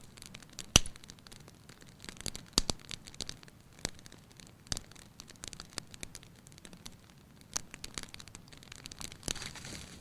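Wood fire crackling in a fireplace: irregular sharp pops and snaps over a soft hiss, the loudest pop about a second in.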